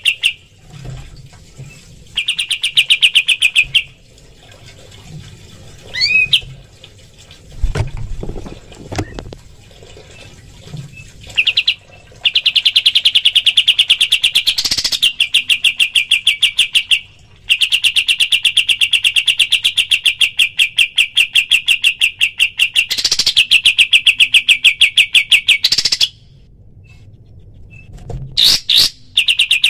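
Pied triller (kapas tembak) song: long trills of rapid, evenly pulsed notes at a steady pitch, broken by pauses of a second or several. There is a short rising whistle about six seconds in.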